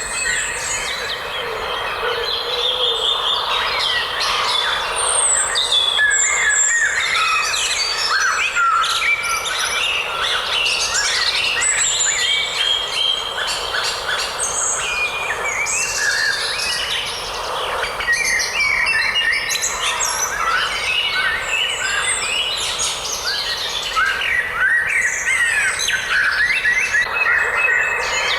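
A dense chorus of several songbirds, many overlapping chirps and trills, over a steady soft hiss of forest background.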